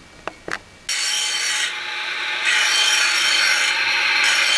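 The blades of a reel push mower being sharpened: a couple of clicks, then about a second in a steady, hissing grinding of metal that grows louder partway through.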